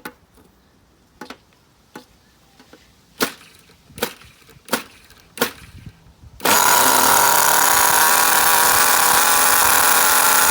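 Small nitro RC car engine (SH-18) being cranked with a series of sharp clicks, then catching about six seconds in and running loudly at a steady idle for a break-in tank.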